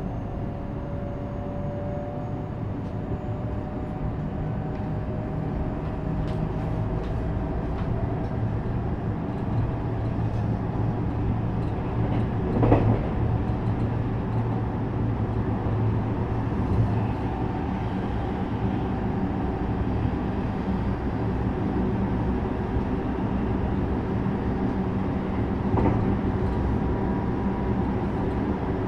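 JR West 321 series electric train running between stations, heard inside the car: a steady rumble of wheels on rail with a low motor hum, a faint whine rising slowly in the first several seconds. A single sharp knock from the track about 13 seconds in and a lighter one near 26 seconds.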